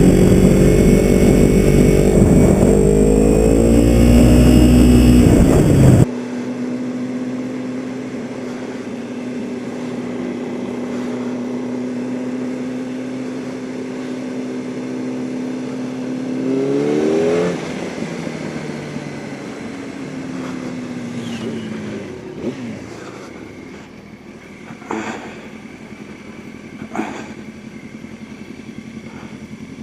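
Motorcycle engine riding along: loud and pulling up through the revs for about six seconds, then suddenly quieter with a steady note. It rises once more in pitch a little past halfway, then eases off lower, with a few sharp clicks near the end.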